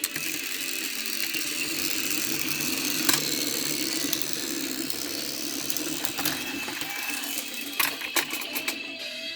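Small battery-powered toy train motors running steadily with a whirring rattle, with a few sharp clicks from the wheels and couplings, most of them near the end.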